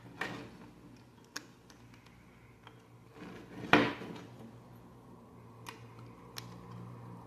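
Plastic Lego pieces being handled: scattered small clicks and rustles, with a louder clatter a little under four seconds in.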